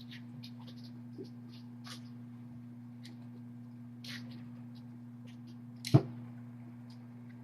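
A steady low electrical hum, with faint scattered ticks and rustles over it and one sharp knock about six seconds in.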